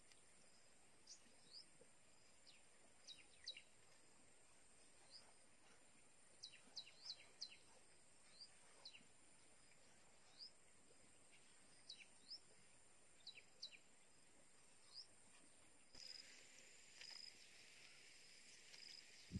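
Quiet outdoor ambience: short, high bird chirps come singly and in quick clusters every second or so, over a faint steady high insect hum. Near the end the background hiss becomes slightly fuller.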